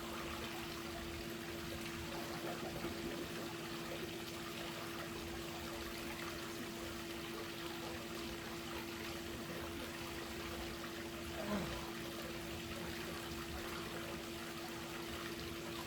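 Steady trickling and running of swimming-pool water, with a constant low hum underneath.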